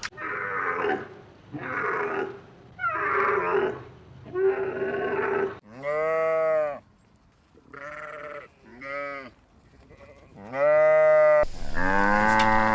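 Farm livestock calling: four short, wavering sheep bleats, then several longer, clearer calls whose pitch rises and falls. Near the end a louder call starts, the first of a cow's moos.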